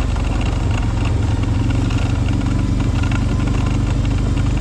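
An engine running steadily at an even pitch, with a light rattle over it.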